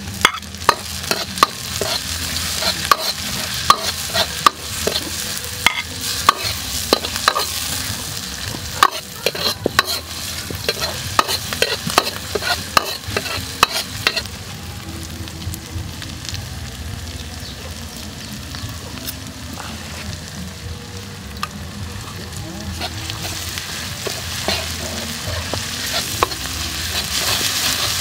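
Garlic, chili and herbs sizzling in oil in a steel wok, while a metal ladle stirs them, clinking and scraping against the pan. The clinks come thick and fast in the first half, then the sizzle goes on mostly alone and grows louder near the end.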